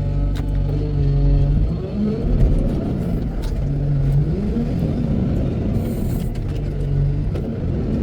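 Heavy diesel engine of a wheel loader running under work. It holds a steady note at first, then its pitch rises and falls as it is throttled through the loading cycle, with a few sharp knocks.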